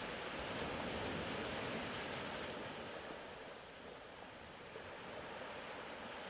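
Faint ocean-surf ambience, a soft even wash of waves that swells slightly and eases off about halfway through.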